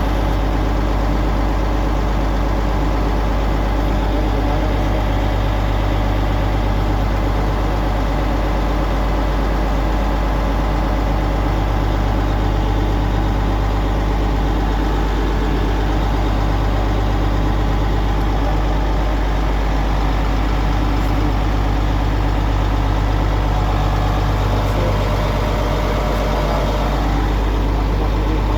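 Large diesel engine idling steadily with an even low hum that does not change.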